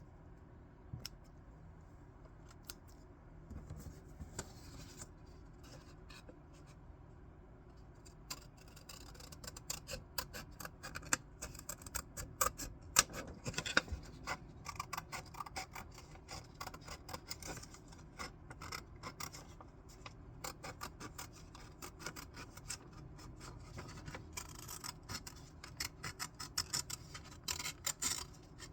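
Scissors cutting paper. A few scattered snips at first, then about eight seconds in a long, dense run of small quick snips as the blades work around a cut-out.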